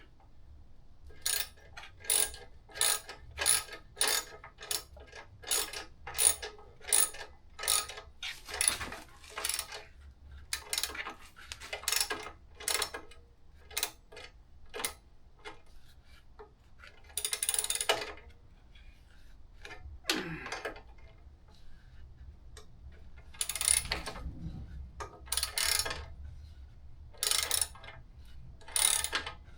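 Socket ratchet on an extension tightening a bolt, ratcheting in quick, even strokes about two a second. After about fifteen seconds it slows to a handful of longer, spaced strokes as the bolt snugs down.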